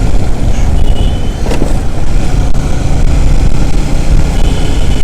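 Steady wind rumble on the microphone with motorcycle engine and road noise while riding at speed. A single short click about a second and a half in.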